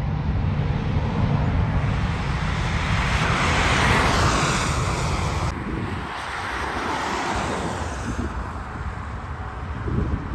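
Jet airliner's engines roaring as it passes, loudest about four seconds in, with a falling whine as it goes by, then fading away.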